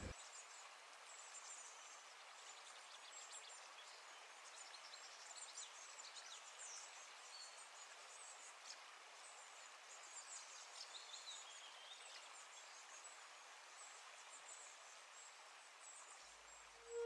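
Faint outdoor ambience: small birds chirping repeatedly over a steady soft hiss.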